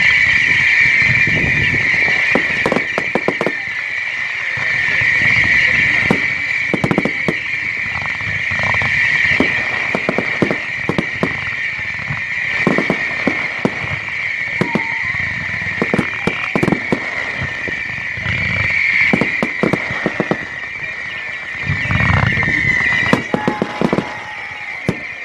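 Fireworks display: a rapid run of bangs and crackles over a steady high-pitched tone, with deeper booms shortly after the start and again about 22 seconds in.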